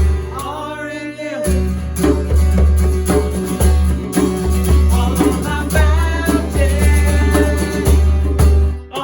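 Worship song with a singer over guitar and a full band with heavy bass. The bass drops out for about a second near the start while the voice carries on, then the band comes back in.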